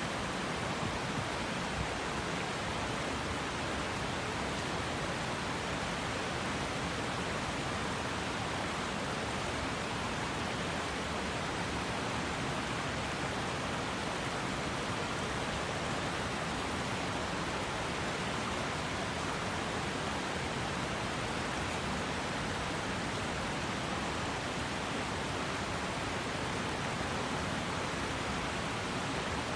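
River water rushing, a steady, unbroken hiss that does not change throughout.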